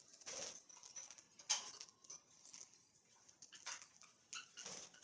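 Pet budgerigars heard faintly: short high chirps mixed with small clicks and rustles, and one sharper click about a second and a half in.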